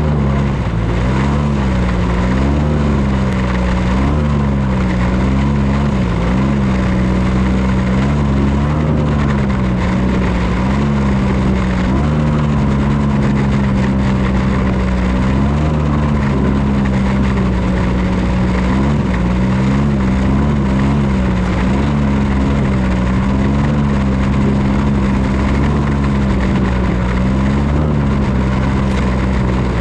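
Ski-Doo snowmobile's 277cc engine running steadily while pulling a trail-grooming drag through snow. Its pitch wavers up and down every second or two as the throttle and load change.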